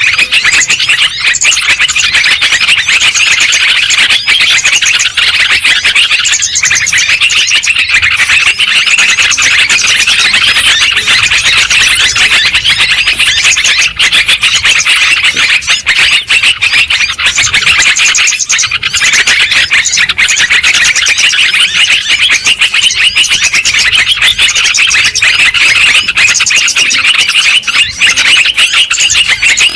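Yellow-vented bulbuls chattering noisily: a loud, continuous chorus of many overlapping quick chirps and bubbly calls.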